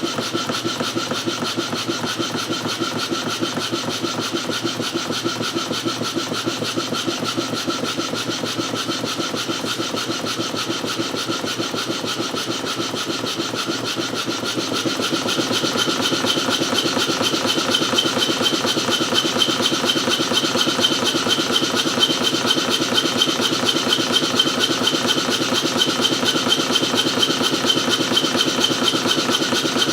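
Stuart No. 1 model steam engine, a single-cylinder double-acting engine, running steadily with rapid, even exhaust beats. It grows louder about halfway through as the supply pressure is raised from its starting 5 psi.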